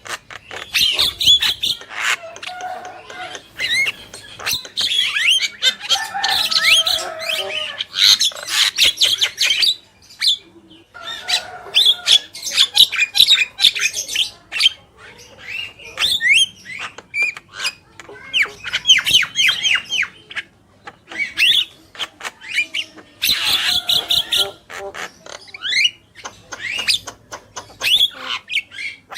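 Javan myna chattering: a fast, loud run of harsh squawks, clicks and whistled notes in bouts, broken by short pauses about ten, fifteen and twenty-one seconds in.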